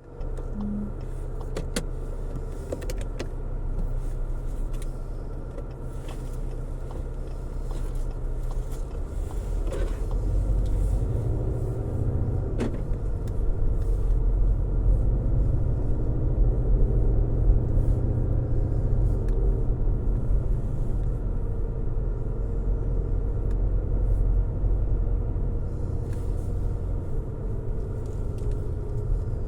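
A car driving, heard as a steady low rumble of engine and road noise that grows louder about ten seconds in, with a few faint clicks in the first half.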